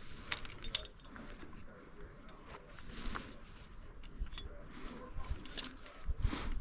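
Metal climbing hardware, such as carabiners, clinking a few times with sharp ringing clicks, over a faint rustle of gear and rope being handled at an anchor.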